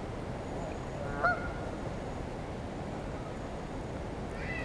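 A bird calls: one short, loud honk about a second in, then a higher call falling in pitch near the end, over steady background noise.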